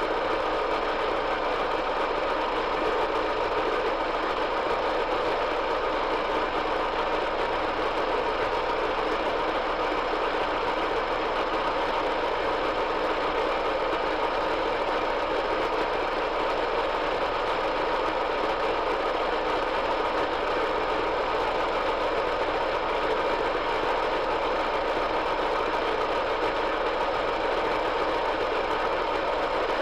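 Metal lathe running steadily under power, a constant machine hum and whine with no change.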